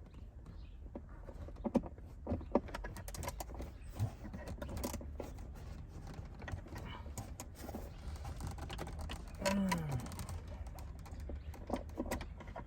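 Scattered small clicks, taps and knocks of hand tools and metal parts being handled while a seatbelt is fitted into a car, over a steady low hum. About nine and a half seconds in there is a short falling squeak or grunt.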